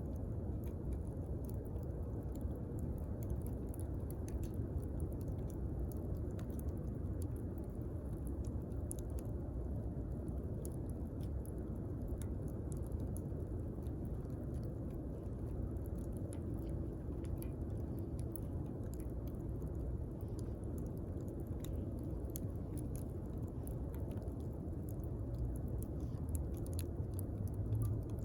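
Wood fire burning, with a steady low rumble of flames and frequent small, sharp crackles and pops from the burning wood.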